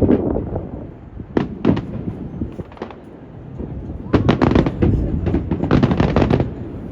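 Aerial fireworks bursting: a few separate bangs, then a rapid run of crackling reports from about four seconds in until shortly before the end, over wind rumbling on the microphone.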